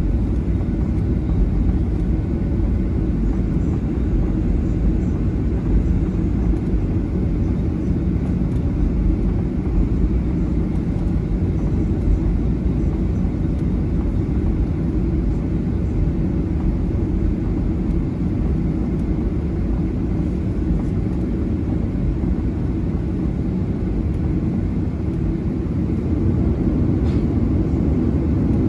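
Steady low rumble inside the cabin of a Boeing 737-900ER, its CFM56-7B engines running at low power while the jet waits or taxis before takeoff, growing slightly louder near the end.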